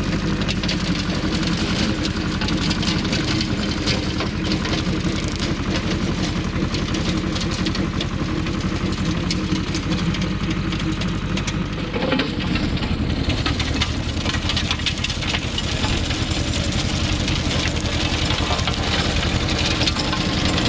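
Goldoni 933 RS DT tractor's diesel engine running steadily under load while its 13 mm chain weeder flails through rockrose brush, a dense crackle of chains striking stems over the engine note. The engine note changes about twelve seconds in.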